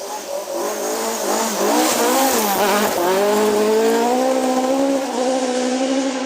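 A historic rally car's engine revving hard on a forest stage. Its pitch dips and climbs through gear changes about two to three seconds in, then holds high and rises slowly.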